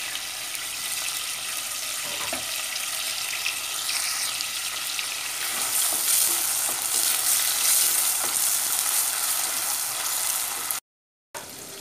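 Chopped red and green peppers sizzling as they fry in hot oil and margarine in a stainless steel pot, with light stirring from a wooden spoon. The sound cuts out completely for about half a second near the end.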